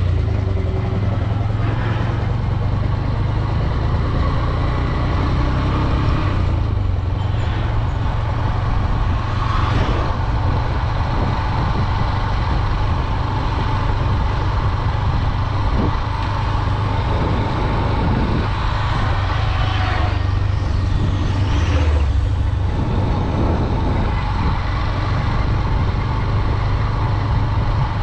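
Honda Dream 110 motorcycle running, a steady, loud low rumble throughout.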